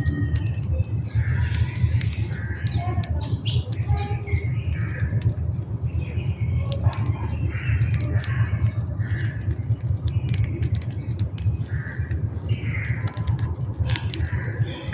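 Sparrows, mynas and crows chirping and squawking in many short, overlapping calls, over a steady low rumble.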